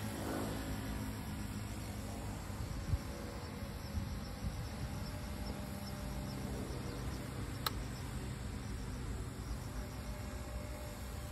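Small V950 electric RC helicopter buzzing steadily in flight, its motor and rotors giving a thin insect-like drone over a low rumble, with a couple of faint knocks.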